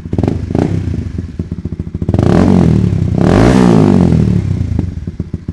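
Honda CBR150R's single-cylinder engine breathing through a Kazen ProExhaust slip-on silencer. It idles, is blipped twice quickly, then is revved twice for longer, each rev rising and falling in pitch, before settling back to idle. The sound is not very bassy and not very loud.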